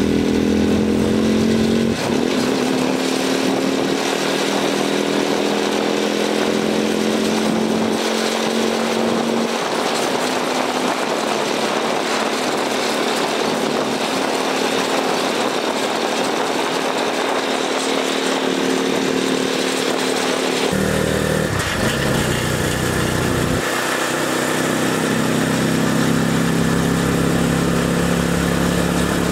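300cc cargo motorcycle engine running under way, its pitch slowly climbing as it picks up speed. About 21 seconds in the note changes abruptly, then climbs again.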